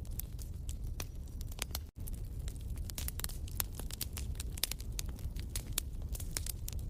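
Wood fire in a fireplace crackling and popping, with frequent sharp snaps over a steady low rumble of flames. The sound cuts out for a split second about two seconds in.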